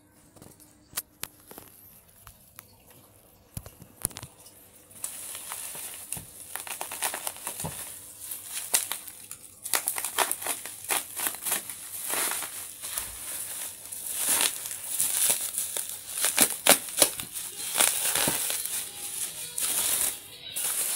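Packaging being handled and pulled open: a few scattered clicks and rustles, then from about five seconds in, steady crinkling and crackling of wrapping with sharp tearing noises.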